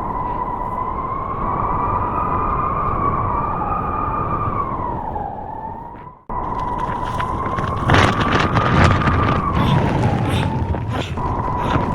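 Blizzard wind howling: a steady rush of noise carrying a wavering whistle-like tone that slowly rises and falls. The sound cuts off abruptly about six seconds in and resumes at once. From about eight seconds in, many sharp crackles and clicks sit over the howl.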